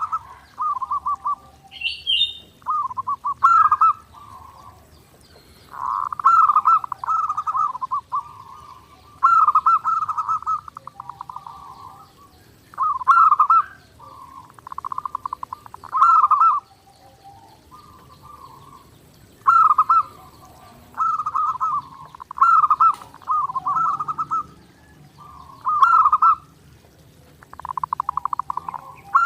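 Zebra dove (perkutut) singing: rolling, trilled coo phrases, each about a second or two long, repeated one after another with short pauses. A brief higher chirp from another bird comes about two seconds in.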